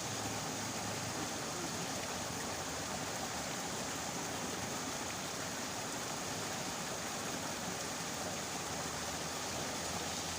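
Steady, even rushing of water, with no separate events standing out.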